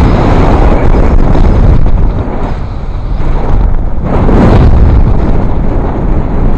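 Wind buffeting the microphone aboard a sailboat under way: a loud, steady rumbling rush, with a stronger surge about four seconds in.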